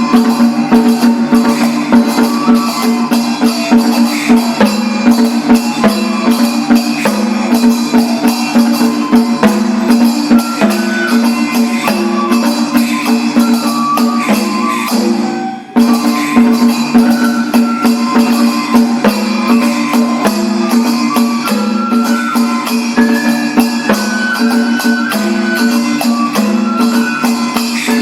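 Kagura hayashi festival music: a held, stepping melody over fast, dense drumming, with a brief break about fifteen seconds in before it starts again.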